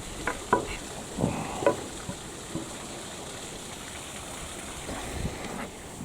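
A few sharp knocks and clatters of driftwood and flood debris being handled, mostly in the first few seconds, over a steady background hiss.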